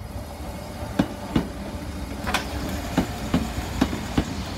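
British Rail Class 313 electric multiple unit pulling away, its wheels clacking over rail joints in pairs of clicks over a low rumble.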